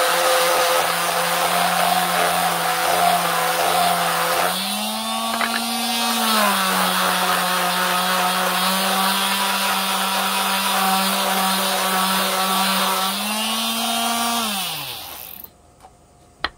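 Electric sander running on wood, its motor pitch rising briefly twice as the load eases, then switched off and winding down near the end. It is smoothing the cut edges of a carved pumpkin face.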